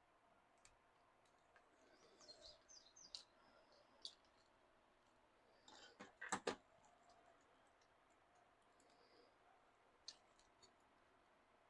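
Faint, scattered clicks and small squeaks of small plastic parts and wiring connectors being handled and worked apart on a small RC crawler. The loudest moment is a quick cluster of sharp clicks about six seconds in.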